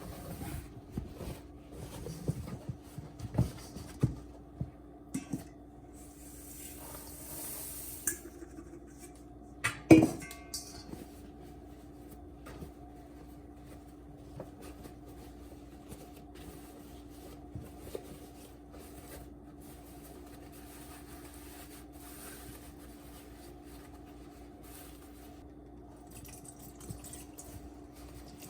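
Dishes and utensils being handled while baking: scattered clinks and knocks in the first few seconds, a rustling hiss a little later, and one sharp knock about ten seconds in, all over a steady low hum.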